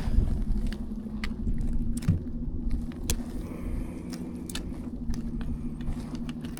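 A steady low engine hum with scattered sharp clicks and knocks.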